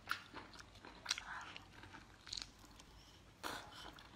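Faint eating sounds: a few soft mouth smacks and chewing clicks, about a second apart, as chili-coated food is bitten and sucked.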